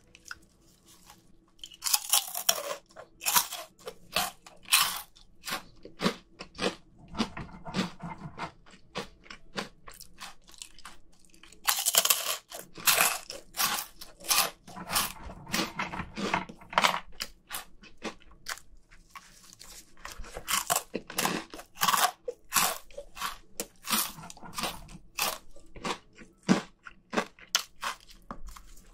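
A person crunching and chewing Flamin' Hot Cheetos, in bouts of sharp crisp crunches with quieter chewing in between.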